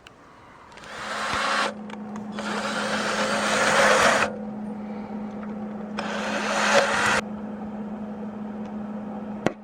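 Electric welder tack welding a nut onto a steel bolt: three bursts of crackling arc, about a second, two seconds and a second long, over a steady hum from the welder.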